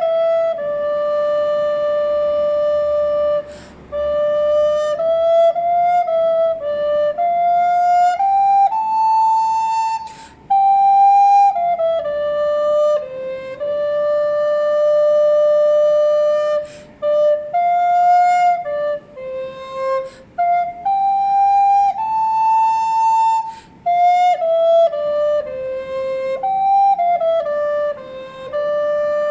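A recorder playing a slow, single-line melody from a Dorian-mode song, its notes held and joined smoothly, with short breath gaps every few seconds.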